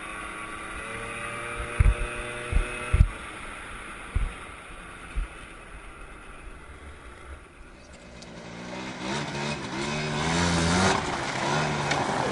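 Suzuki LT80 ATV's small two-stroke engine running, fading to faint about halfway through, then coming back with wavering revs over the last few seconds. A few low thumps in the first five seconds.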